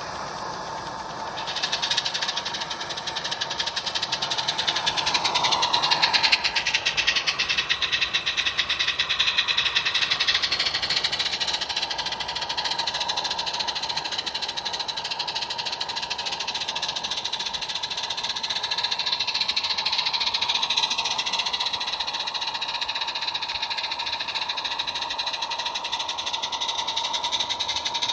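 A 16mm-scale model railway locomotive running steadily, with a hiss and a fast, even beat. The sound grows louder about a second and a half in, and its pitch slides briefly around five seconds in.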